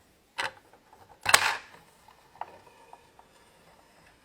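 Plastic toy jumbo jet's cargo hatch and toy luggage being handled: two sharp plastic clacks, the second louder, then a few faint taps.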